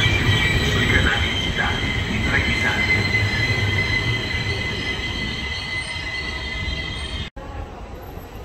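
Regional train of Vivalto double-deck coaches with an E464 electric locomotive braking into the platform: low rumble of the rolling train with a steady high squeal from wheels and brakes, slowly fading as it slows. About seven seconds in the sound cuts off suddenly to a much quieter station background.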